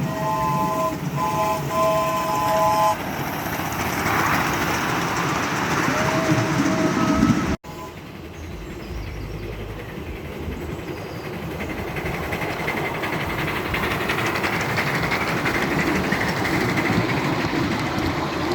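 Miniature live-steam model of Royal Scot class locomotive LMS 6109 'Royal Engineer': its multi-note whistle blows three times, the last blast longest, then the locomotive runs steadily along the track.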